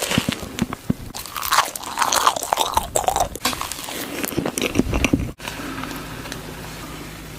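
A person biting and chewing crunchy food with loud, irregular crunches. The crunching cuts off abruptly about five seconds in, leaving a quieter steady background.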